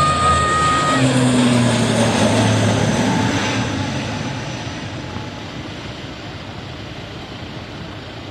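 ATR 72-600 turboprop airliner's two Pratt & Whitney PW127M engines passing close by. A high turbine whine cuts off about a second in, then the propeller drone drops in pitch as the plane goes past, and the sound fades to a steadier, quieter rumble.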